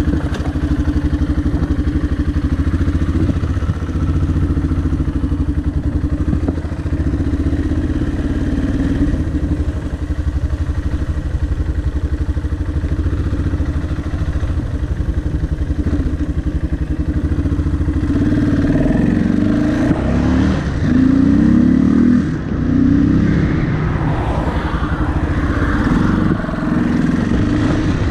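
Yamaha XT660R's single-cylinder engine running steadily, heard through a helmet-mounted microphone. From about eighteen seconds in, the revs rise and fall several times.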